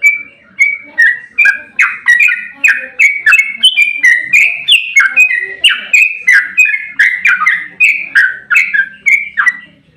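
Yellow-vented bulbul (trucukan) singing a long, fast, unbroken run of varied chirping notes, about three a second, shifting up and down in pitch. Each note starts with a sharp click.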